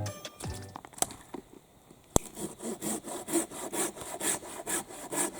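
Hand saw cutting wood, likely firewood, in steady back-and-forth strokes, about two a second, beginning a couple of seconds in after two sharp clicks.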